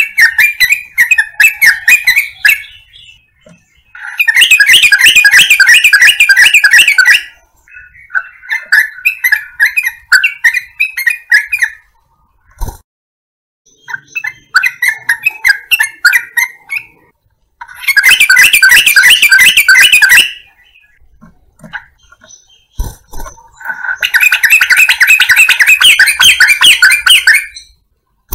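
Yellow-vented bulbul (trucukan) song: loud phrases of rapid bubbling, chattering notes, repeated over and over with short pauses, some phrases about three seconds long and others shorter and softer. It is a lure call meant to get other bulbuls to answer.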